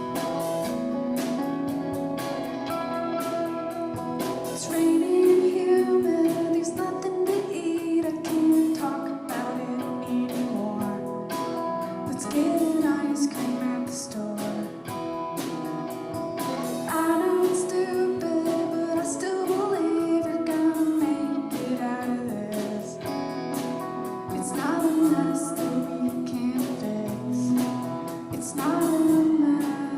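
Live band music: a woman singing the lead vocal over guitar accompaniment and drums, in sung phrases of a few seconds each.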